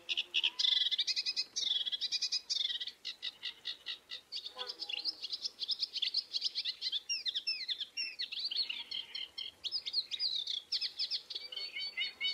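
Many birds chirping and calling at once in a dense, continuous chorus of rapid high notes, with quick falling whistles through the middle.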